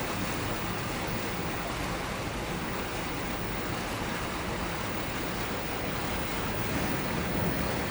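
Steady rushing noise of a storm, wind and water together, with no separate events standing out.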